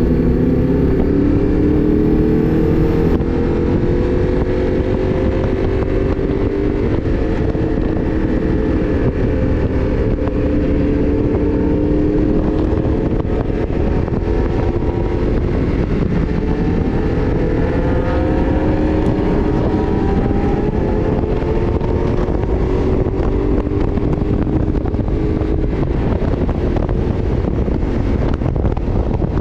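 A 1000 cc motorcycle engine running under way, its note climbing gradually as the bike gathers speed, under heavy wind rumble on the microphone.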